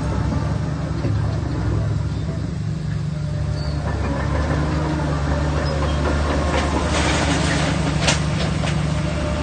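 Shantui DH17C3 bulldozer's diesel engine running steadily under load, with a short stretch of clatter and a sharp knock about seven to eight seconds in.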